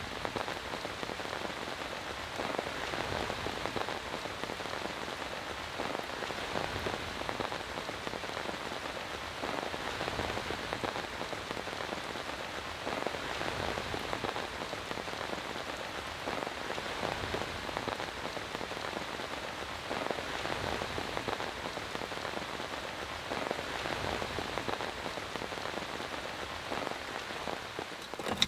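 Steady rain falling, with drops striking a nearby surface in an irregular spatter.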